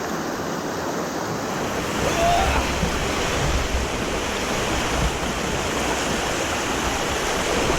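Creek water rushing steadily over the rock slab of a natural waterslide, with wind rumbling on the microphone from about two seconds in.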